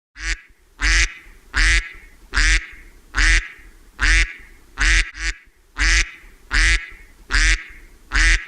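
A duck quacking: a steady series of about a dozen loud quacks, a little more than one a second.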